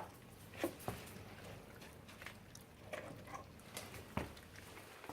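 Puppies chewing and tearing at a raw chicken carcass: scattered wet crunches and sharp clicks, a few louder ones near the start and one about four seconds in.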